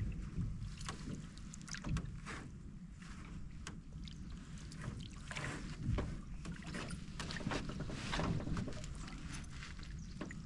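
Canoe being paddled: the paddle dips and pulls through the water in swishing strokes, with irregular light knocks, over a low steady rumble.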